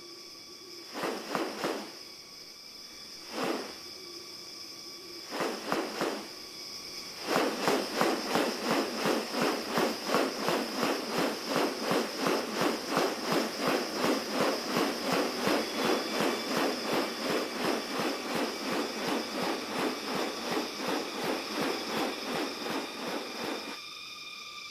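Rainforest ambience: a steady high drone from insects, with a few separate short sounds early on, then a long run of rapid pulses, about three a second, that begins about seven seconds in and stops near the end.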